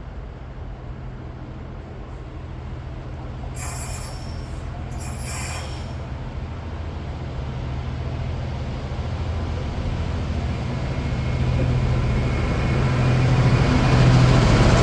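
Freightliner freight train's diesel locomotive approaching through the station, its low engine rumble and wheel noise growing steadily louder. Two brief high hissing spells come about four and five and a half seconds in.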